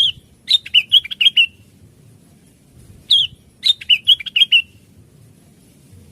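Cucak wilis (a leafbird) singing: two short phrases of quick chirping notes, each opening with a high falling note, about three seconds apart.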